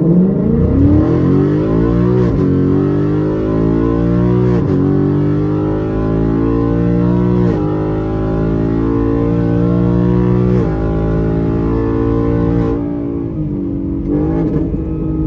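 2018 Ford Mustang GT's 5.0 V8 exhaust with both mufflers removed and the resonators deleted, pulling through the gears. The pitch climbs and dips briefly at each of several upshifts, then levels off near the end.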